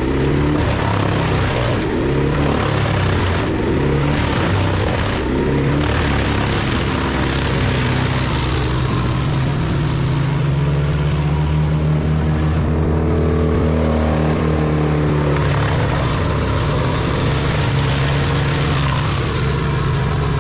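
A large forestry wood chipper's engine running hard under load as wood goes through it. The engine's pitch dips and recovers around the middle.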